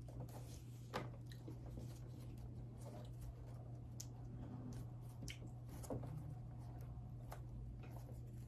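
Faint handling of dessert packaging: scattered light clicks and rustles, the sharpest about a second in and again near six seconds, over a steady low hum.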